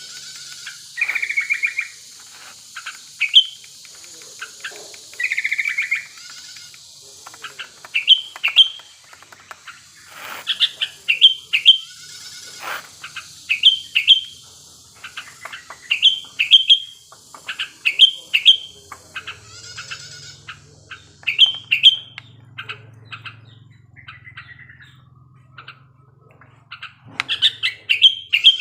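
Sooty-headed bulbul (kutilang) singing in full breeding-season voice: short, bright chirping phrases repeated every second or so, with two longer buzzy notes near the start. A steady high hiss runs beneath the song until about two-thirds of the way through.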